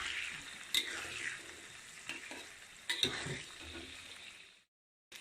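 Chopped onions, tomatoes and lemongrass sizzling in oil on a tawa while being stirred, with sharp clicks of a utensil on the pan about a second in and again about three seconds in. The sizzle fades and cuts off abruptly near the end.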